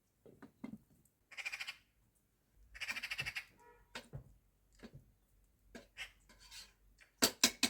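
Two harsh, raspy animal calls, the second longer, followed by scattered knocks and a quick run of sharp clicks near the end.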